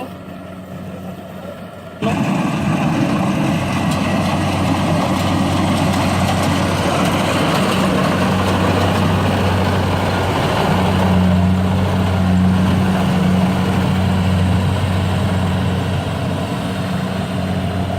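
A heavy farm machine's engine running steadily with a low hum. It cuts in suddenly about two seconds in, after a quieter stretch.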